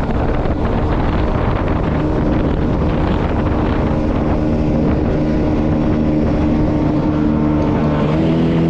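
A small engine running steadily at a constant speed over wind on the microphone, its pitch stepping slightly higher near the end.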